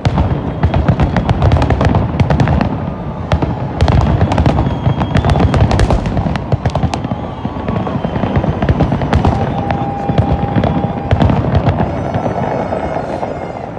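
Aerial fireworks display: a dense barrage of booming shell bursts and crackling, thinning slightly near the end.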